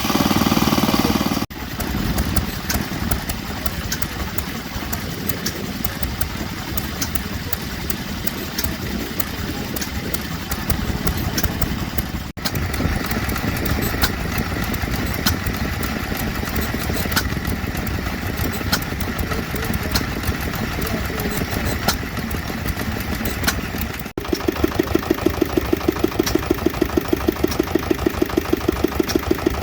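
Vintage stationary oil engines running, heard as several short clips cut together, each with steady mechanical running noise. The last engine has a regular, quick, even firing beat.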